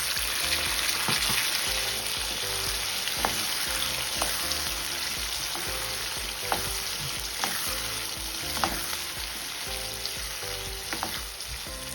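Chicken, onion and chopped tomato frying in oil in a saucepan, sizzling steadily, with scattered sharp clicks of a utensil against the pan.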